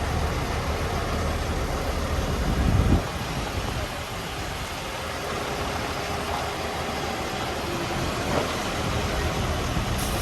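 Diesel truck engine running steadily; its heavy low rumble drops away sharply about three seconds in, and a quieter steady running continues.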